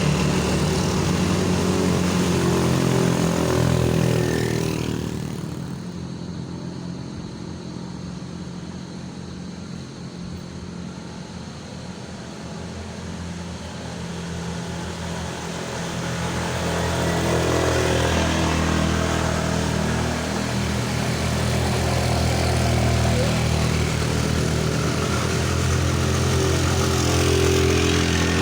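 Motor vehicle engine running at a steady pitch, loud at first, fading about five seconds in, then building up again from about sixteen seconds in.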